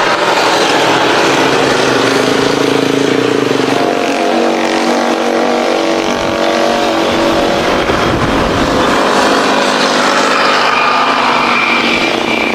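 Jet engines of a landing Boeing 777-300ER (GE90-115B turbofans), loud and steady, with several tones that drift in pitch, easing slightly near the end.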